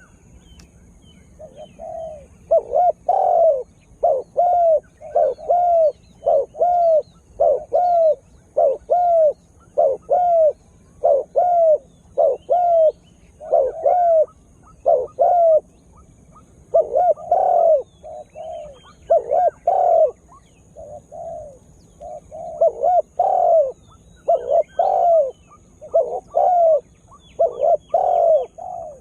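Spotted dove cooing over and over: a long run of short, arching coos, about one to two a second, starting about two seconds in, with brief pauses. This is a tekukur lure bird calling in full voice.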